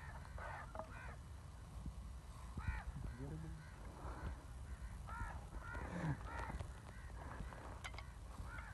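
Harsh bird calls in a few short series, each call rising and falling in pitch. Brief low murmurs of voices come in between.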